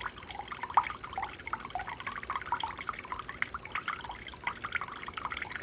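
Sboly single-serve coffee maker trickling and dripping water into a large cup during its first water-only cleaning cycle, with many quick, irregular drips.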